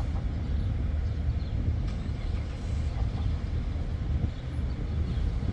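Steady low outdoor rumble, with a few faint, short gull calls over it.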